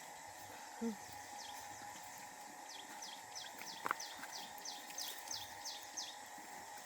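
A bird's high chirps, each sliding quickly downward, repeated about three times a second in a run from around three seconds in, over a faint steady hum. A single sharp click just before four seconds is the loudest moment.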